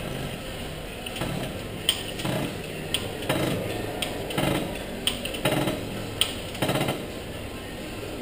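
Metal tools and transmission parts clinking and knocking on a workbench: a run of sharp metallic knocks, roughly one a second, each with a short ring.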